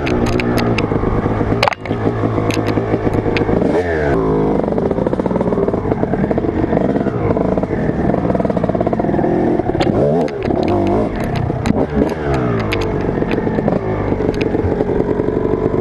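Motocross dirt bike engine revving up and down repeatedly as the bike is ridden hard, with rattling clicks and knocks throughout and a sharp knock about two seconds in.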